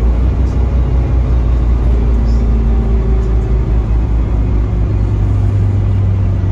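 Scania K310UB city bus's diesel engine and drivetrain running on the move, a loud, low, steady drone, with a low engine tone growing stronger about halfway through.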